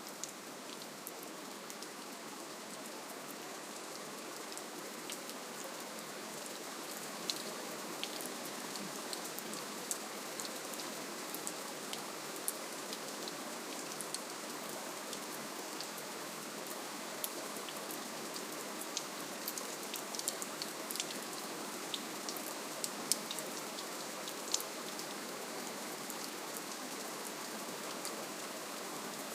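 Steady, gentle rainfall, an even hiss with many individual drops ticking sharply on a surface throughout.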